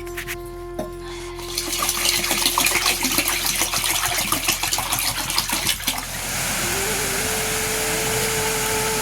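Soft background music with slow held notes over the steady rush of rain. A dense crackling runs from about one and a half to six seconds in, then gives way to an even hiss of rain.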